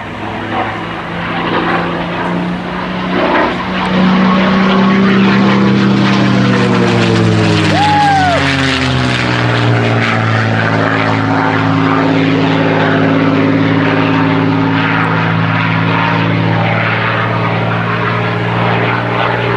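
P-51 Mustang's piston engine and propeller during a flyby: the engine note grows louder over the first few seconds, drops in pitch as the plane passes about eight seconds in, then holds steadily.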